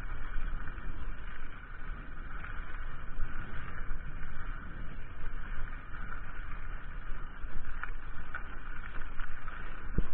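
Mountain bike riding on a trail: a steady rumble of tyres and wind on the camera's microphone, with a few short knocks from the bike over the ground, one near the end.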